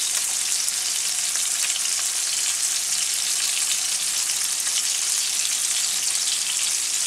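Sockeye salmon fillets searing in hot oil in a frying pan: a steady sizzle with fine crackling.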